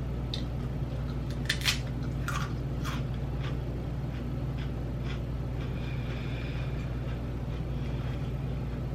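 Potato chips being bitten and chewed close to the mouth: a run of sharp, crisp crunches, thickest in the first few seconds and tapering off about halfway, over a steady low hum.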